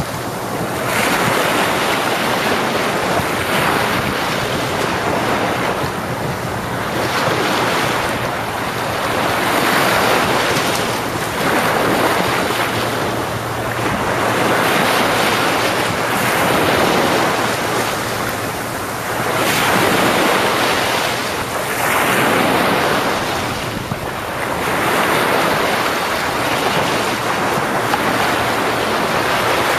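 Ocean waves breaking and washing up the shore, the surf swelling and fading every two to three seconds.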